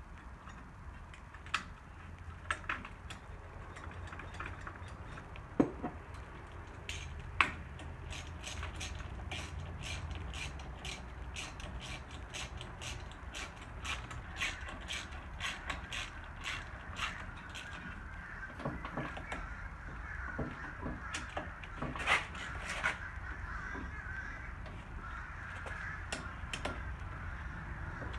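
Hand ratchet wrench clicking in quick runs, with scattered metal taps and knocks as parts are bolted back onto a lawn tractor.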